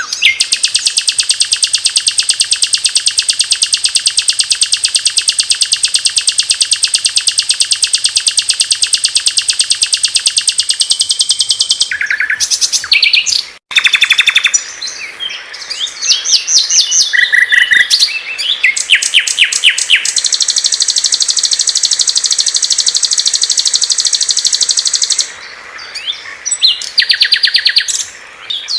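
Small songbirds singing loud, high-pitched, very fast trills of evenly repeated notes, with a long trill lasting about eleven seconds. A brief cut is followed by mixed short chirps and phrases, then another long trill. This is recorded tutor song of the kind played to train caged songbirds.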